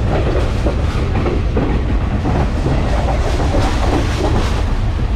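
Passenger train running, heard from inside the carriage: a steady, loud low rumble with the wheels clattering over the rail joints.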